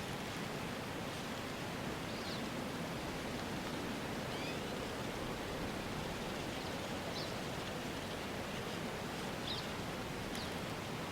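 Steady outdoor rushing noise like wind or distant water, with faint short high chirps or squeaks every couple of seconds.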